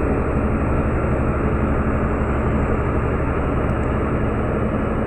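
Meteor hydrofoil's diesel engines running at speed: a steady, loud drone with a low rumbling hum underneath and a faint high whine.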